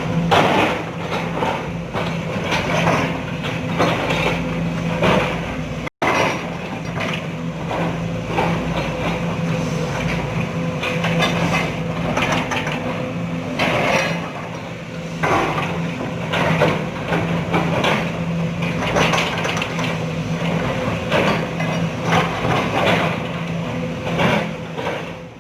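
Sumitomo SH210 hydraulic excavator's diesel engine running steadily, with irregular knocks and clanks as the machine works.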